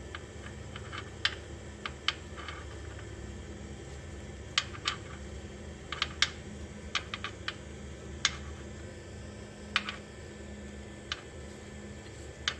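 Irregular sharp clicks and light metallic clinks of hand tools and compression-gauge fittings being handled as the gauge is moved to the next cylinder, some in quick little clusters, over a steady low hum.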